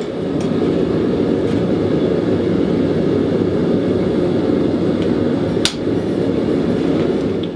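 Forge burner running with a steady roar, with a single sharp strike about two-thirds of the way through.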